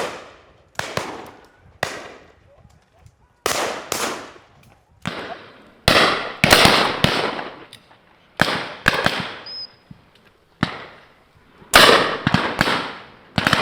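Shotguns firing repeatedly at driven birds, about a dozen shots with several in quick pairs, each trailing off in a long echo.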